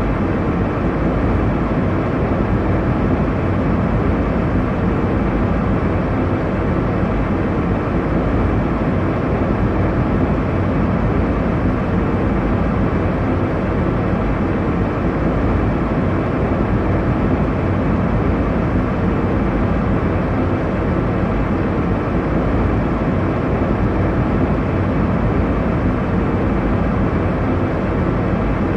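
Airliner cabin noise in flight: a steady, low rush of engine and airflow noise, even throughout with no changes.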